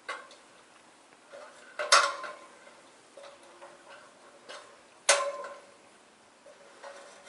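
Three sharp metallic clinks, the second and third loudest, each ringing briefly, from metal hardware knocking together.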